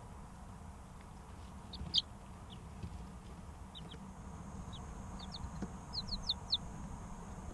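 Three-week-old chicks peeping: short, high, downward-sliding chirps, scattered singly and then in a quick run of four or five about six seconds in, over a steady low hum.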